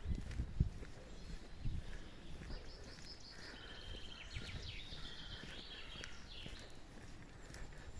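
A bird singing: a run of high chirping phrases over several seconds in the middle, against outdoor background noise. A few low thuds come in the first two seconds.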